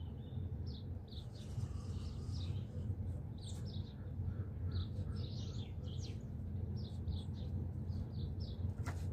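Wild birds chirping, many short high calls one after another, over a steady low outdoor rumble.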